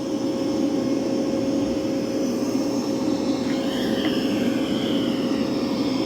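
Mova V50 robot vacuum running on carpet at maximum suction: a steady whir with one constant tone.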